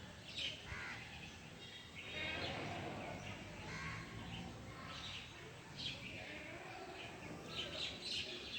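Birds chirping and calling, short high chirps and trills recurring throughout over a low background of outdoor noise.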